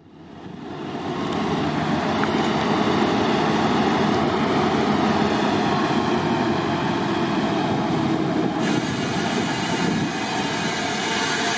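Diesel-hauled train running, loud and steady, with its wheel and engine noise swelling up over the first second or two.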